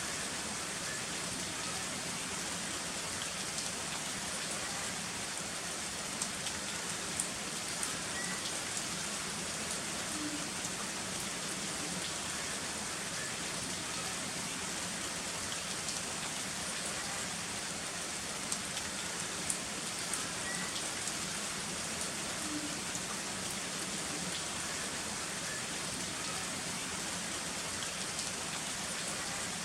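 Heavy rain falling steadily in an even hiss, with a few sharper drop ticks scattered through; no thunder is heard.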